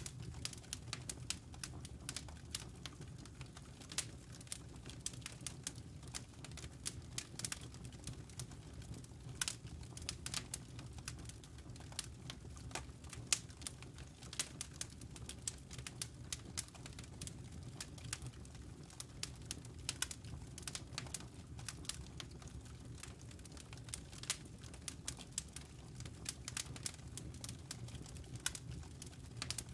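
Campfire crackling: burning wood gives off many irregular sharp pops and snaps over a steady low rumble of flame.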